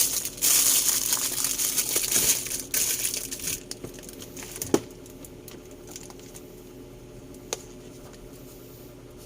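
Plastic packaging crinkling and rustling as it is handled, for about the first three seconds. It then gives way to a faint steady hum broken by a couple of sharp clicks.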